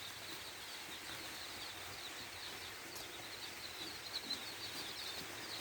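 Five-day-old Sonali chicks peeping faintly, many short high chirps overlapping in a steady stream over a low hiss.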